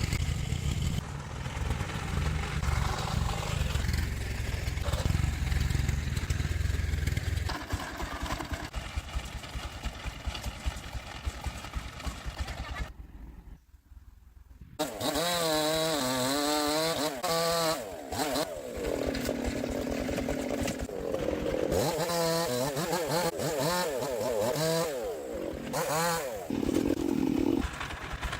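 Engine noise: a steady low running sound at first, then, after a brief drop-out around the middle, an engine revving up and down over and over.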